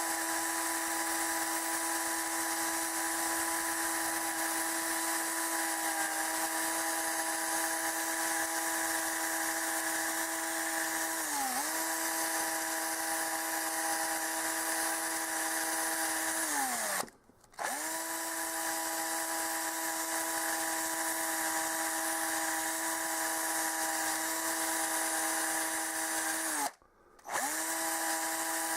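Small electric power tool running at a steady high speed, its motor pitch dipping briefly about 11 seconds in as it is loaded. Twice it winds down in pitch, falls silent for under a second, then starts up again.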